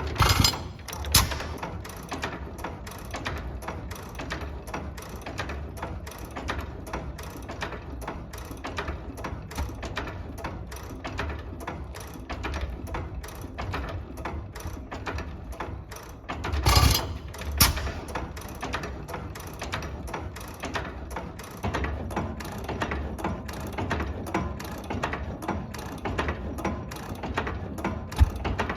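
Early-1900s single-cylinder portable engine, a 1918 'Star', running with a steady, even mechanical clatter of clicks, broken by a few louder thumps: one pair near the start and another about halfway through.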